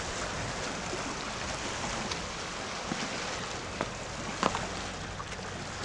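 Steady rushing shoreline ambience of surf and wind, with a few faint clicks here and there.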